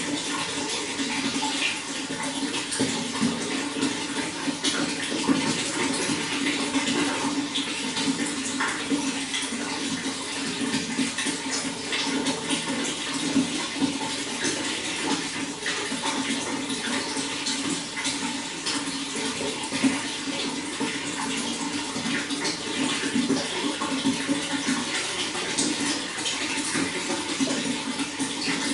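Running water flowing and splashing steadily, a constant rush peppered with many small irregular splashes.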